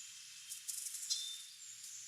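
Wild songbirds calling: a few short, high chips and one brief falling note about a second in, over a steady high hiss.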